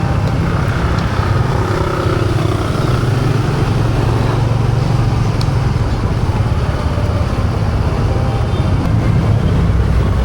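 Yamaha PG-1's small single-cylinder four-stroke engine running steadily while riding, with road and wind noise on the microphone. The engine note drops lower near the end.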